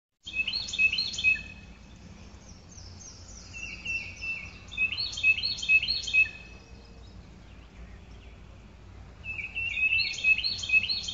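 Songbirds chirping in three quick bouts of short, repeated high notes, over steady low background noise.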